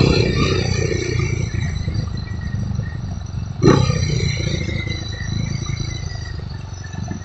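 Motorcycle engine running while riding through traffic, a steady low rumble. A short loud blip comes about halfway through, and the engine sound eases off near the end as the bike slows.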